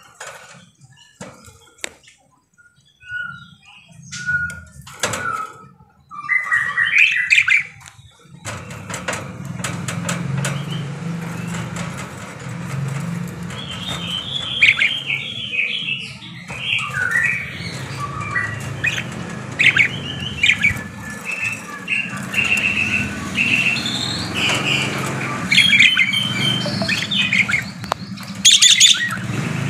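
Pet budgerigars chirping and chattering. The first few seconds hold scattered clicks and short chirps. From about eight seconds in the chattering becomes dense and continuous over a steady low hum.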